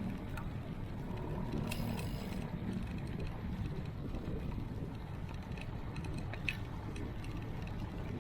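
Riding noise from a moving bicycle: a steady rush of wind and tyres with a few light clicks and rattles from the bike's mechanism, a short run of them about two seconds in.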